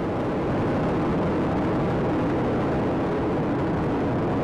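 Space Shuttle Atlantis's two solid rocket boosters and three main engines in a steady, deep, unbroken roar as the shuttle climbs at full thrust during ascent.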